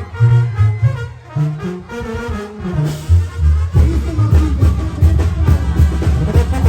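Brass band music with a strong, rhythmic bass line under trumpets and trombones, the band playing fuller from about four seconds in.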